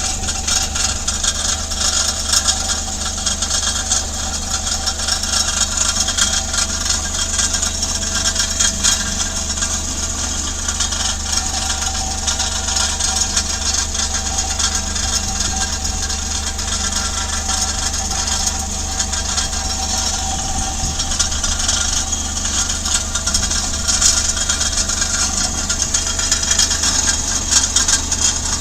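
A car engine running steadily with a rattling, rumbling noise from the exhaust, described as a "gara-gara, goro-goro" sound. On a car about ten years old it was put down to a deteriorated muffler.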